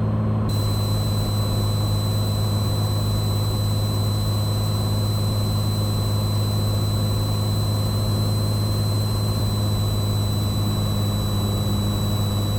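Cessna 182 Skylane's six-cylinder piston engine and propeller running at steady reduced approach power, heard from inside the cabin as an even drone. A thin, steady high whine joins about half a second in.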